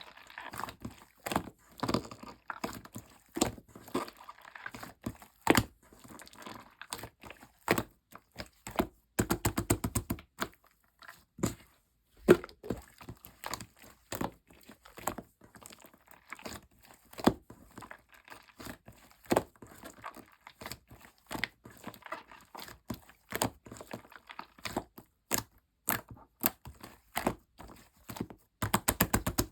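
Sky-blue clear slime mixed with yellow clay being squished and stretched by hand: a steady string of sticky pops and clicks. There are quick runs of rapid crackling about nine seconds in and again near the end.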